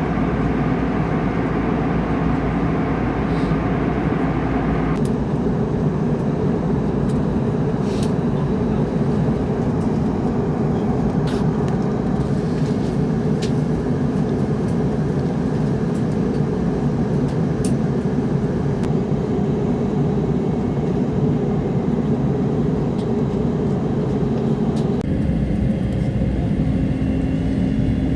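Steady rumble and rush of a jet airliner in flight on its landing approach, from its engines and airflow. The tone changes abruptly about five seconds in and again near the end.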